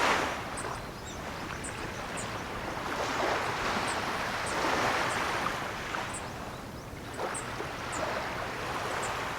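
Ocean surf: waves breaking and washing in, the rushing sound swelling and falling away in slow surges, with the biggest swell in the middle.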